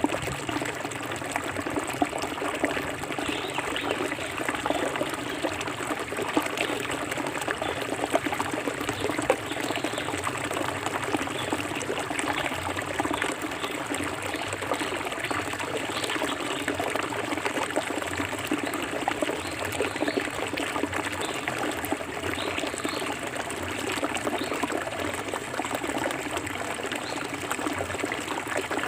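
Clear forest stream flowing over rocks, a steady babble of trickling, splashing water.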